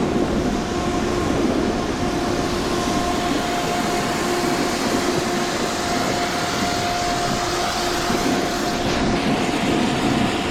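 Snowmaking fan gun running: a steady loud rushing roar with a constant hum through it.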